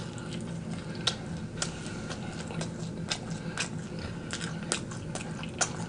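Close-miked chewing of crispy fried chicken wings: irregular small crunches and mouth clicks, over a faint steady hum.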